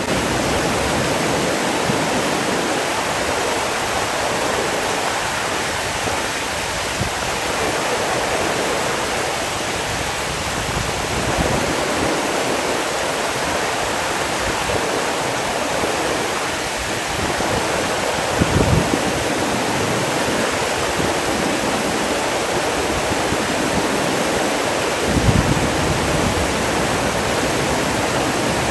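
Steady rushing water, like a waterfall or fast stream, with two brief low thumps about two-thirds of the way in and near the end.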